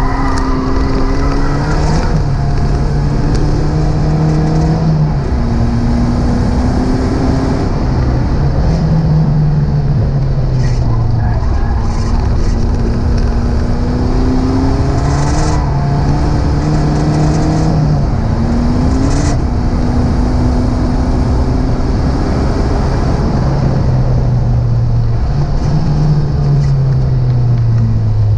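Renault 5 Alpine Turbo's turbocharged four-cylinder engine revving hard under full acceleration, heard from inside the cabin. The pitch climbs through each gear and drops back at every shift or lift for a corner, over and over.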